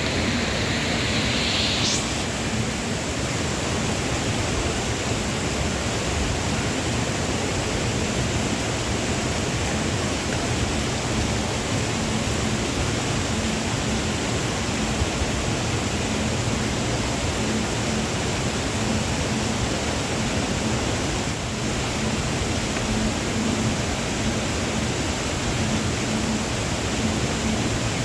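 Waterfall rushing: a steady, loud, even hiss of falling water. For the first two seconds a brighter, higher hiss sits on top and ends with a short rising sound.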